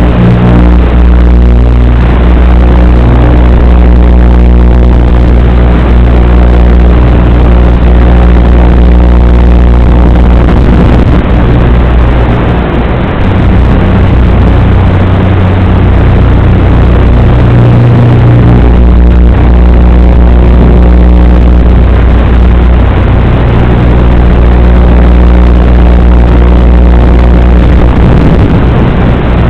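Strong wind buffeting the microphone: a loud, constant rumble with steady humming tones that shift up and down in pitch every few seconds.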